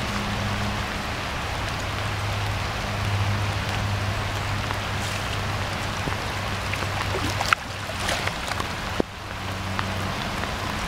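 Steady rain falling, an even hiss of drops, over a low steady hum. Two sharp knocks sound in the last few seconds.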